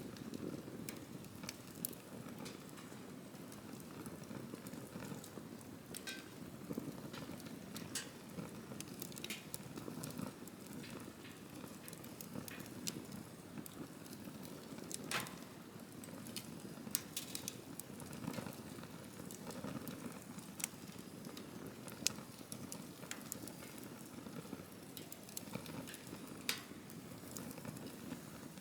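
Wood campfire burning: a steady low rush of flames with wood crackling in scattered sharp snaps and pops, a few of them louder.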